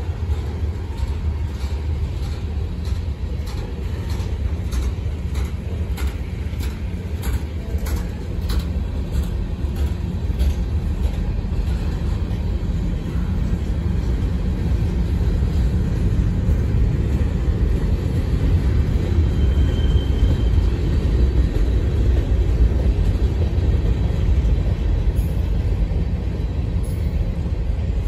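Freight cars of a passing train rolling by: a steady low rumble of wheels on rail, with a run of evenly spaced clicks from wheels crossing rail joints during roughly the first ten seconds.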